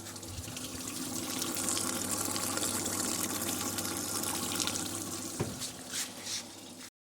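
Winterhalter undercounter commercial dishwasher running: a steady pump-motor hum with water spraying and splashing inside the cabinet. The sound builds over the first second or two, then cuts off abruptly near the end.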